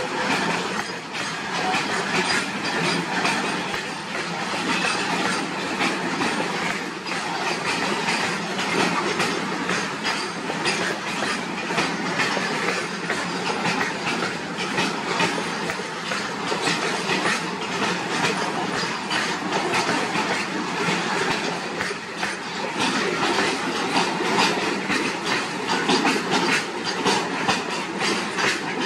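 Freight train of flat wagons loaded with steel rods rolling slowly past, the steel wheels clacking irregularly over the rail joints in a steady run of clicks and rumble.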